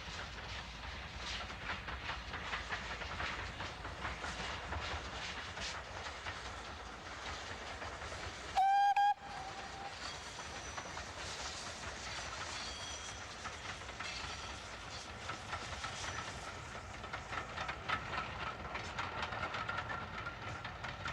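Steam train running, with a steady rumble and many quick knocks from the wheels and rails. About nine seconds in, the steam whistle gives one short, loud blast.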